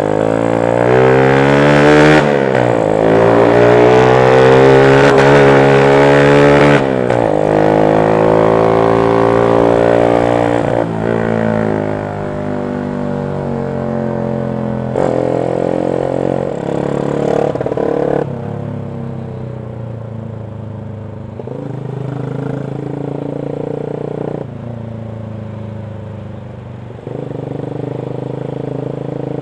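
Yamaha Jupiter MX 135 single-cylinder four-stroke engine through a CLD X Monster racing exhaust, accelerating through the gears. The pitch climbs and drops back at each shift, about 2, 7 and 11 seconds in. It then runs at a lower, steadier pitch and quieter for the rest.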